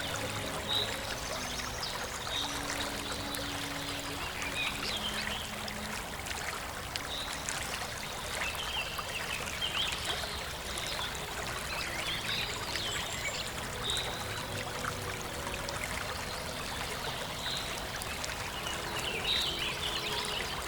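Steady rush of flowing water, as from a stream or waterfall, with short high chirps recurring every second or two over it.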